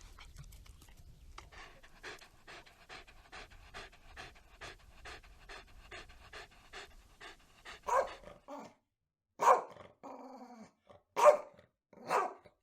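A dog panting quickly and evenly, about three breaths a second, then a dog barking four times, loudly and separately, in the last few seconds.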